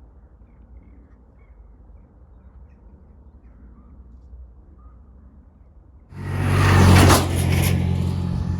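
Faint outdoor ambience with a few small bird chirps, then about six seconds in a vehicle arrives suddenly and passes close with a loud rushing noise over a low steady hum.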